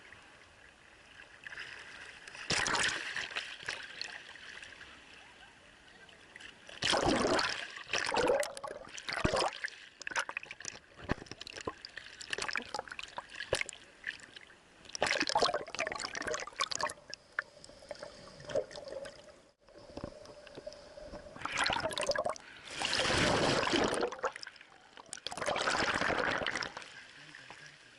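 Sea water splashing and rushing around an action camera held in the surf. It comes in several loud surges a second or more long, about five in all, as waves wash over it, with quieter sloshing in between.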